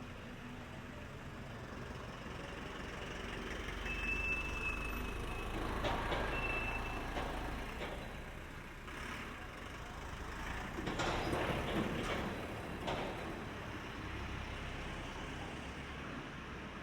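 A motor vehicle's engine running close by in a narrow street, with a steady low rumble. Two short high beeps sound about four and six seconds in, and louder noisy bursts come around eleven to twelve seconds.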